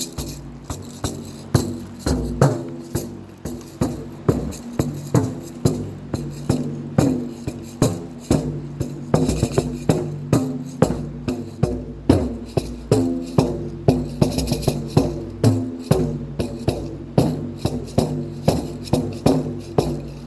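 Three drums played in a steady rhythm, about two to three strokes a second, each stroke leaving a short pitched ring, with maracas shaking along.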